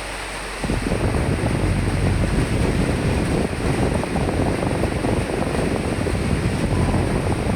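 Steady rain hiss, joined about half a second in by a strong gust of wind: a loud, low, fluctuating buffeting that starts abruptly and lasts several seconds.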